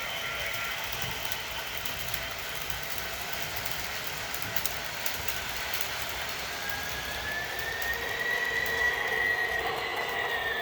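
HO-scale MTH SD70ACe model locomotive running with its onboard diesel sound playing and its wheels rolling on the track. About two-thirds of the way in, a high squeal starts, rises a little and holds.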